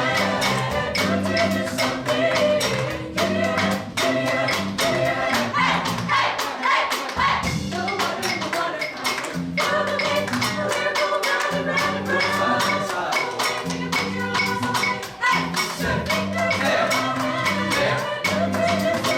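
Chamber choir singing an upbeat pop arrangement in close harmony over a fast, steady percussion beat.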